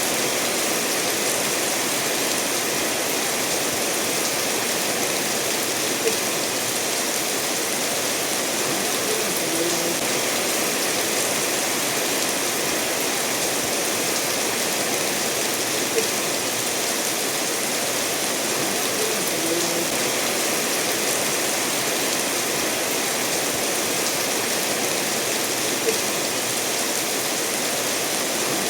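Steady rainfall mixed with a stream running over stones, an even, unbroken wash of water noise. A brief louder drop-like tick stands out about every ten seconds.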